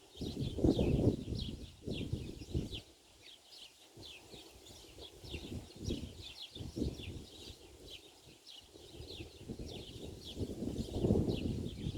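Small birds chirping continuously, a rapid run of short falling chirps. Under them, a low gusty rumble like wind on the microphone swells in the first couple of seconds and again near the end.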